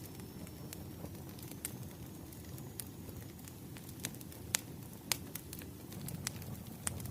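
Wood fire crackling, with irregular sharp pops and snaps over a low steady rumble of burning logs.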